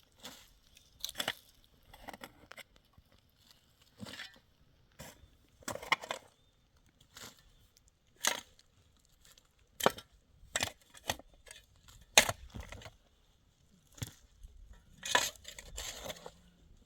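Irregular sharp crunches and knocks, about a dozen, unevenly spaced with short quiet gaps between them.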